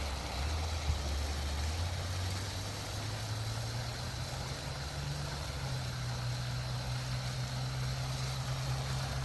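Garden hose running at full pressure into a bucket: a steady rush of water with a low hollow hum that rises gradually in pitch as the bucket fills.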